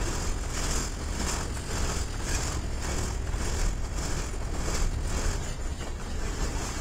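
Freight train of loaded ballast hopper cars rolling past, steel wheels clacking over the track in a steady rhythm of about two to three clacks a second over a deep rumble.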